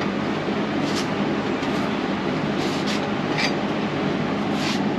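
Steady mechanical hum and rushing noise, like a fan or running machine, with a few faint light ticks.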